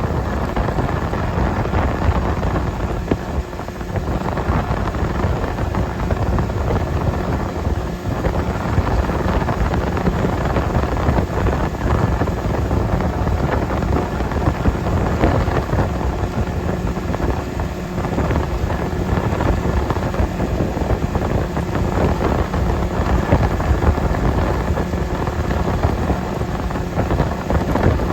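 Heavy wind buffeting the microphone over a motorboat's engine running steadily.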